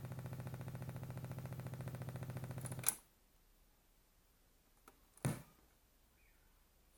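Car stereo speakers fed from a Xiaomi Redmi Note 2 through a jack-to-jack AUX cable, giving a fast, even clicking with no music. It is the phone's AUX fault, which occurs only with the jack-to-jack cable and not with headphones. The clicking cuts off with a pop about three seconds in, and a single louder pop follows about five seconds in.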